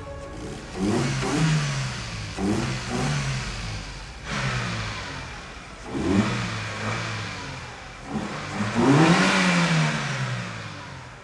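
Car engine revved in about five blips, each rising and falling in pitch, the biggest near the end. The engine runs after a faulty crankshaft position sensor was replaced; before that it would not start.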